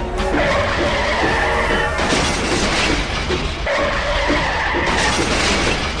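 Added crash sound effects for a train derailing, a loud noisy smashing and skidding clamour, heaviest about two seconds in and again near the end, laid over background music.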